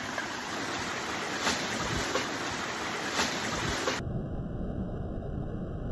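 Steady rush of running stream water with a few faint knocks. About four seconds in the sound abruptly turns muffled and dull.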